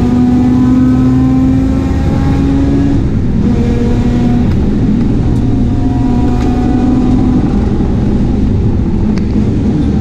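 Mazda RX-8 race car engine pulling hard, its note rising slowly under full throttle. The note breaks off about three seconds in and again after four and a half, for gear changes or lifts, and picks up again each time.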